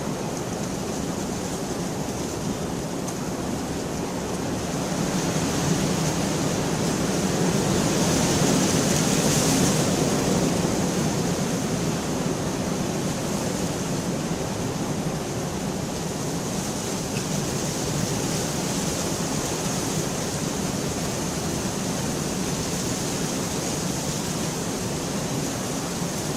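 Steady heavy rainfall, an even hiss that swells louder for several seconds about a quarter of the way in, then settles back.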